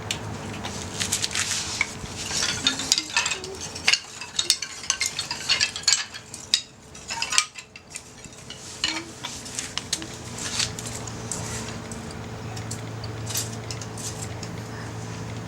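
Metal clinking and scraping of utensils against a compact campfire grill while sausages cook, a quick run of sharp clicks through most of the first ten seconds that then thins out. A steady low hum grows in the background in the second half.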